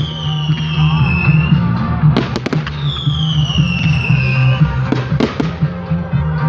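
Fireworks going off: several sharp bangs and two long falling whistles, over music with a steady low bass.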